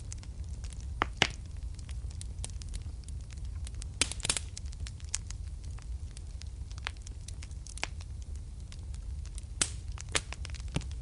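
Wood fire burning in a fireplace, crackling and popping irregularly over a steady low rumble of the flames, with a few louder pops.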